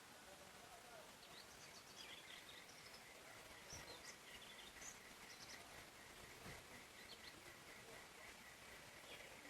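Faint forest ambience with several birds calling in short, high chirps and twitters over a soft hiss. From about two seconds in, a fast pulsing note at one steady pitch keeps going underneath.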